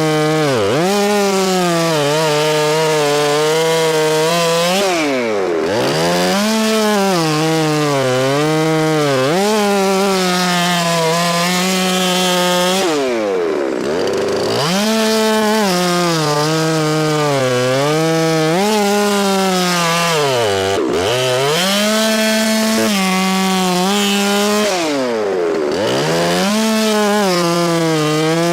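Chainsaw running hard while cutting through a log, its engine note sagging and wavering under load. About five times it drops sharply and revs back up as the throttle eases between cuts.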